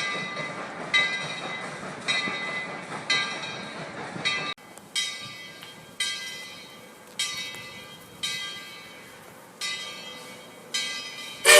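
Steam locomotive's bell ringing steadily, about one stroke a second, each stroke ringing on and fading, over the low noise of the train. About four and a half seconds in, the sound changes abruptly, as at an edit, and the bell rings on more clearly.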